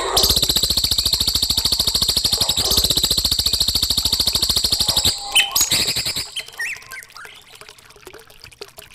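Songbird on a tutoring recording singing a fast, buzzy trill for about five seconds, then a few short chirps.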